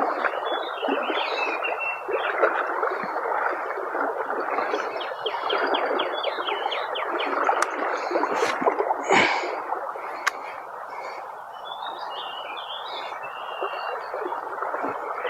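River current running steadily, with birds chirping above it and one short, sharp, louder sound about nine seconds in.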